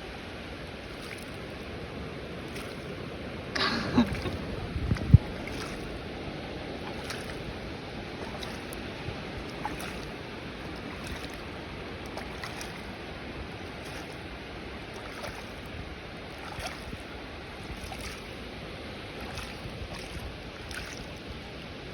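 Ocean waves washing on the shore as a steady surf noise, with a brief sharper sound and a single knock about four to five seconds in.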